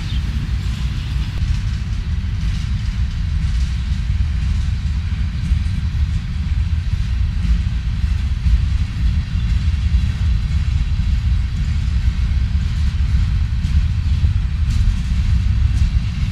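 Freight train rolling past, a steady low rumble with no breaks.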